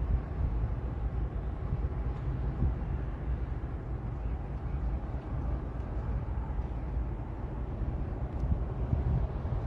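Steady low rumble of heavy equipment diesel engines running at the derailment cleanup site.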